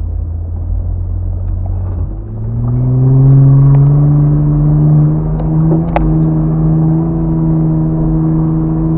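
Off-road vehicle's engine running at low revs, then revving up about two seconds in and holding a higher, louder steady note. A single sharp click about six seconds in.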